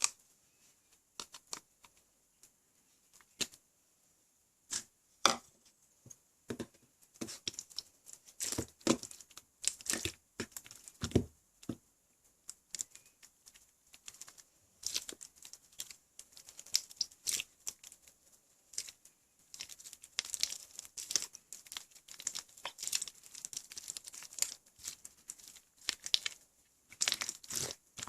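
Slime with clay mixed in being kneaded and stretched by hand: irregular sticky crackles and small pops, sparse at first and coming thick and fast from about seven seconds in.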